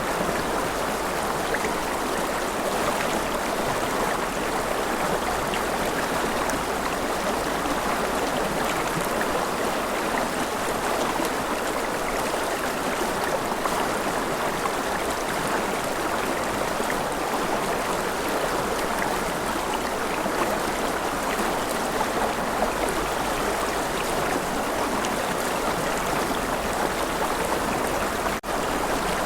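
River water flowing steadily over rocks, a continuous even rush. It drops out for a split second near the end.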